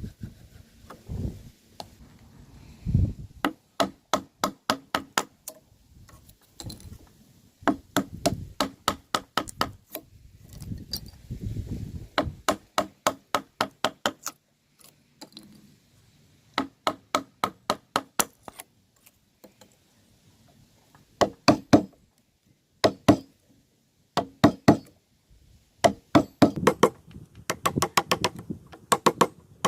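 Runs of quick hand-tool blows on wood, several strikes a second, broken by short pauses, as in chiselling or tapping joinery pieces together.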